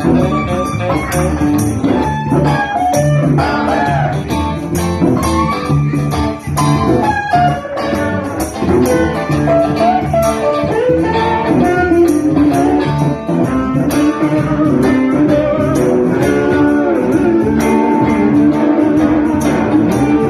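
Live blues band playing an instrumental section: a lead guitar plays a solo line with bent notes over rhythm guitar and bass guitar, with percussion keeping a steady beat.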